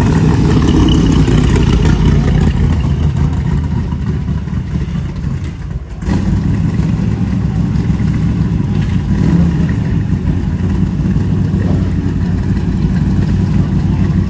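Car engines running at low speed and idling in a steady low rumble, with a brief drop in level about six seconds in.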